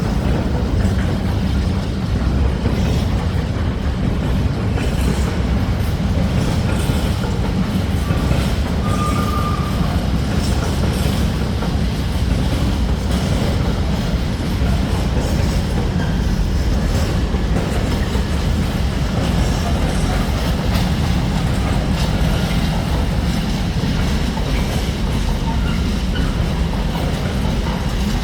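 A train running along the track at the platform, a steady loud rumble with light wheel clatter, and a brief high squeal about nine seconds in.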